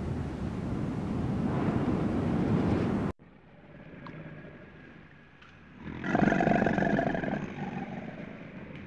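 Animal sounds: a harsh noisy sound for about three seconds that cuts off abruptly, then after a quiet stretch a drawn-out pitched animal call starting about six seconds in.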